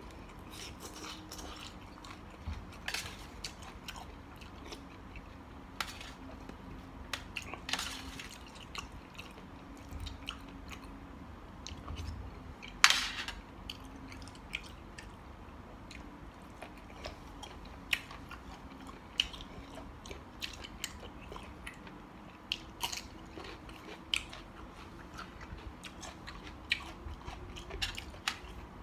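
A person chewing and biting food close to the microphone, eating a mixed seafood salad: wet mouth clicks and crunches scattered throughout, with one sharp, loud crunch about 13 seconds in.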